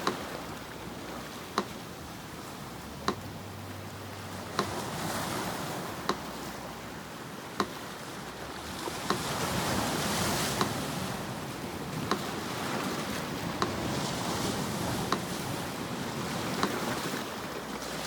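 Sea surf washing on a shore, swelling louder about halfway through, with a metronome ticking slowly and evenly, about once every second and a half.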